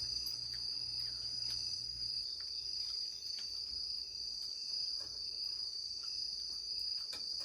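Crickets chirring: a steady, high-pitched insect chorus with faint scattered clicks. A low hum underneath stops about two seconds in.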